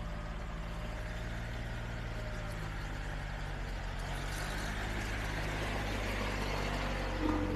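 A road water-sprinkler truck's engine idling steadily, with a rising hiss partway through.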